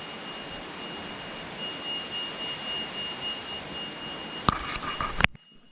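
Steady rush of a waterfall, with a thin, high, steady insect drone over it. Two sharp clicks come near the end, and then the sound cuts off suddenly.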